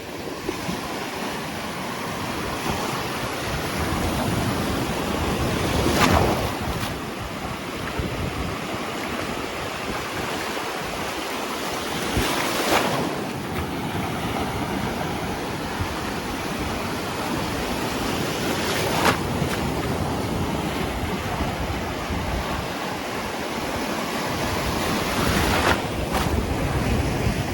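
Ocean surf on a beach: waves breaking and washing in, a louder surge about every six seconds over a steady hiss of water, with wind buffeting the microphone.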